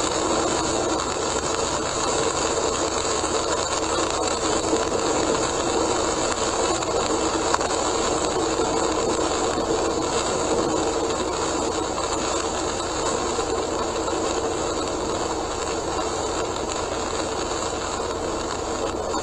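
Steady road noise heard inside a car driving fast on a rain-soaked expressway: tyres hissing on the wet road surface and rain on the car, with a constant rumble.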